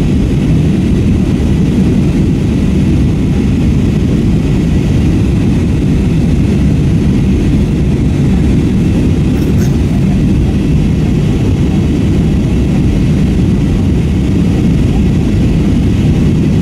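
Steady cabin noise of an Airbus A321-232 in flight, heard from inside the cabin: a loud, even, low rumble of the IAE V2500 turbofans and airflow, with no change in pitch or level.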